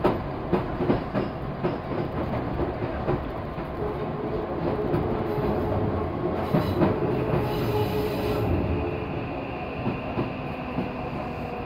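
Hakone Tozan Railway electric train running, heard from inside the car: wheels clicking over the rail joints over a steady rumble. A steady high wheel squeal joins about seven seconds in.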